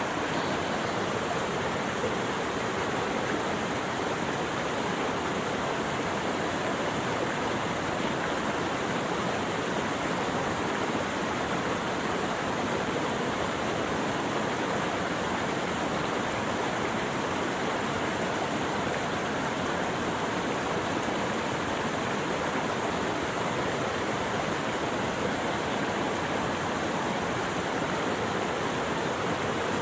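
Steady rush of flowing water, an even hiss that holds the same level throughout with no single event standing out.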